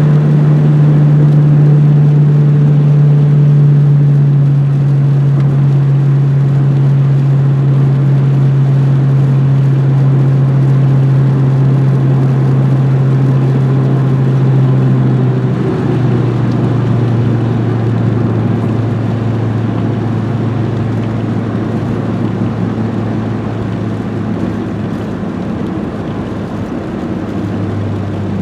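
Renault 21 GTS's 1.7-litre carburetted four-cylinder engine running at a steady speed, a loud steady drone. Its pitch drops a little about halfway through and again near the end.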